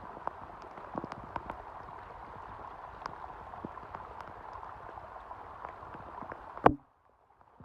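Steady watery patter with many small drip-like ticks scattered through it. It ends in one loud click, then the sound cuts off.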